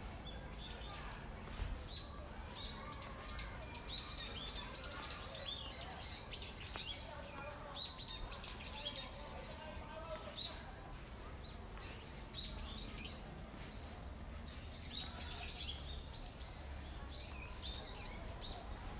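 Small birds chirping in clusters of quick, sharp high notes with short pauses between clusters, over a steady low rumble.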